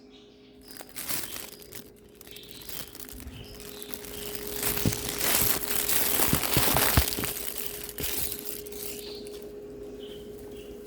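Close crinkling and rustling handling noise, building to its loudest in the middle with a few sharp clicks, over a faint steady hum.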